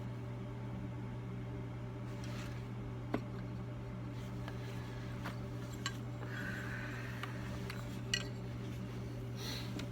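A few light metallic clicks and taps from a micrometer being handled against an engine piston during measurement, over a steady low hum.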